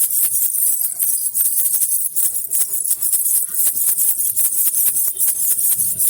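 Baby rattle (jhunjhuna) shaken without pause: a dense, rapid rattling of many small clicks with a bright jingling hiss.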